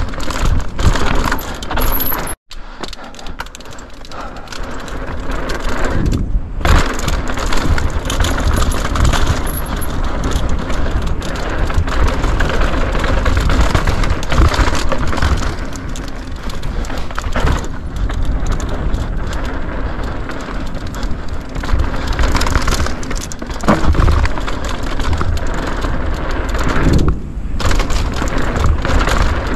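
Mountain bike being ridden downhill on a dirt forest trail: constant tyre roar and rattling clatter from the bike over roots and rough ground, with wind buffeting the chest-mounted action camera's microphone. The sound cuts out for an instant about two and a half seconds in.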